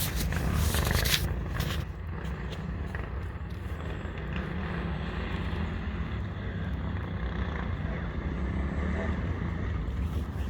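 Off-road motorcycle engines running steadily, with a few sharp clicks or knocks in the first two seconds.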